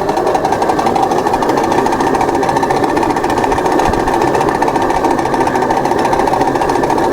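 Takani electric pit bike ridden off-road: a loud, steady, fast rattling with a faint whine held underneath.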